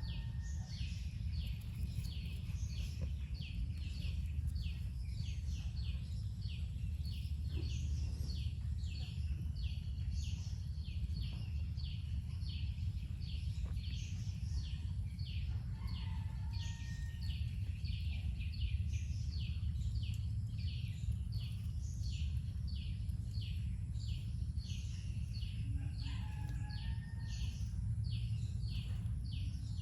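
A bird chirping over and over in a steady, high, even rhythm of about two chirps a second, over a constant low background rumble. Twice a soft, lower call sounds briefly, about halfway through and near the end.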